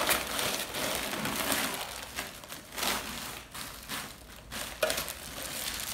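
Packaging being handled: irregular crinkling and rustling of plastic and foam packing, with a few sharper crackles.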